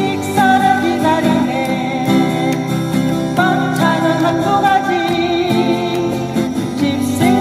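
Acoustic guitar strummed with a voice singing a Korean folk sing-along song over it.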